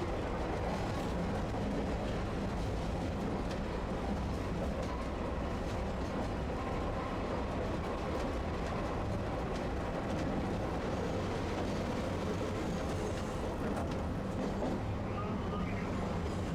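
Tosaden streetcar running, a steady, unbroken noise of motors and wheels on rail.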